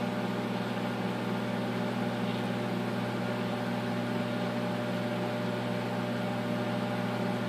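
Microwave oven running, a steady hum with a low drone, while heating a beaten egg in a bowl.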